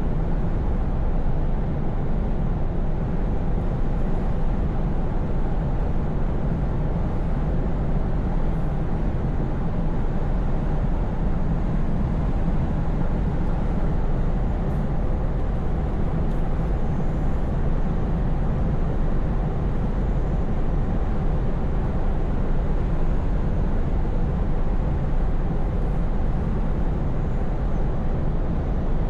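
Scania V8 truck cruising, its engine a steady low drone under even road noise, with no change in pace.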